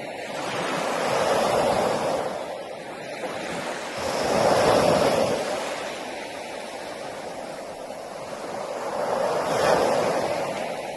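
Sea waves breaking on a shore, a steady wash of surf that swells three times as waves come in and fade away, about every three to five seconds.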